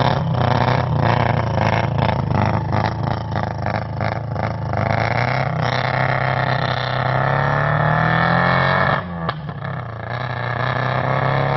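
Mazda RX7 rally car's rotary engine running hard. For the first few seconds the sound pulses unevenly about four times a second. Then the revs climb steadily, fall sharply with a brief click about nine seconds in, and climb again.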